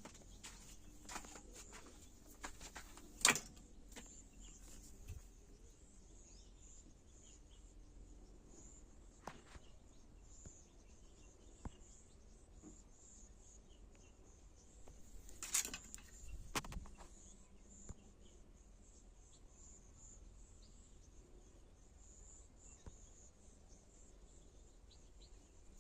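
Steady, high-pitched chirring of insects, with a few sharp clicks or knocks: the loudest about three seconds in and two more around the middle.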